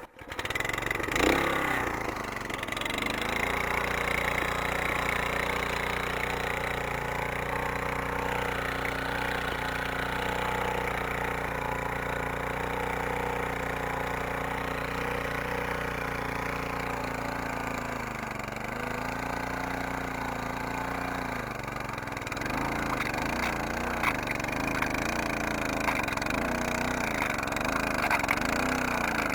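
Tracked walk-behind tractor's engine running steadily as the machine drives. The pitch dips briefly about two-thirds through, then wavers quickly up and down near the end.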